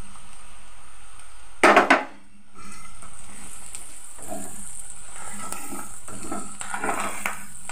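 Fish roe sizzling in hot oil in a karahi, stirred and scraped with a wooden spatula. There is a short loud burst about two seconds in, then steady sizzling with many small scrapes of the spatula.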